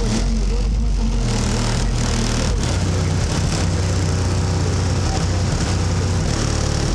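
A vehicle engine idling steadily, with a deep, even low hum.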